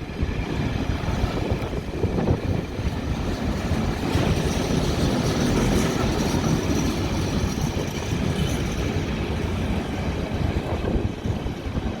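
Freight train passing on the track: a steady rumble and rattle of wagons rolling by, swelling slightly in the middle.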